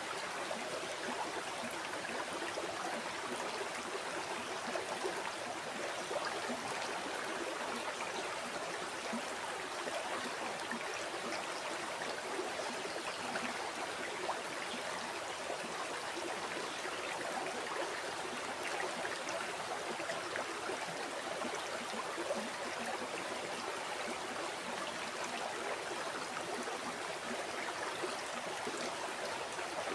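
River water flowing over stones: a steady rushing with small burbles and splashes, unchanging throughout.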